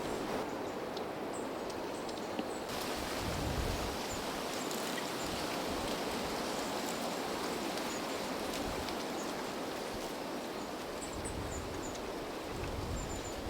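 Wind blowing steadily through trees, with gusts buffeting the microphone as low rumbles twice. A few faint, short, high bird calls come through the wind.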